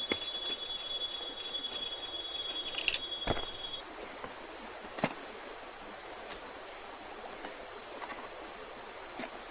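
Steady high-pitched insect chorus of crickets or cicadas that steps up to a higher pitch about four seconds in, over a soft background hiss. A few sharp knocks come around three and five seconds in.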